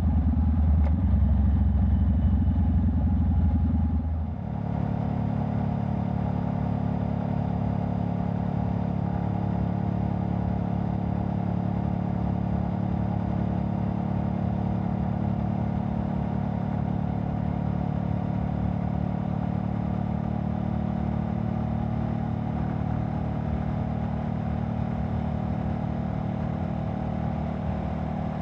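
Honda Rebel 500's parallel-twin engine running through a Vance & Hines exhaust while riding. The sound dips briefly about four seconds in, then the engine settles into a steady, even run.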